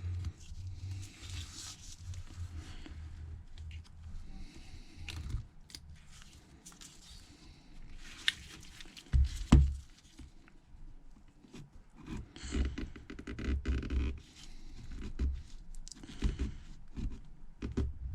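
Hand tool scraping old adhesive off the edges of an iPhone XS Max housing in short, irregular strokes, with small bumps of the phone against the work surface and one sharp knock about halfway through.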